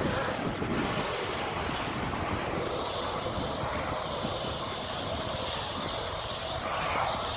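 Steady rushing roar of the burning CNG garbage truck, its compressed natural gas venting and burning off through the tank relief, with a slow wavering sweep in the hiss from about a third of the way in.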